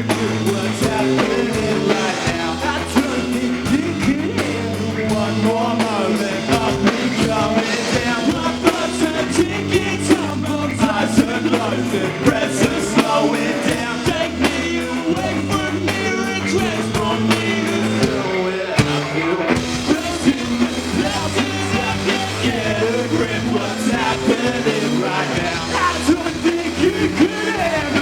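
Live rock band playing a song with a singer, bass and drums.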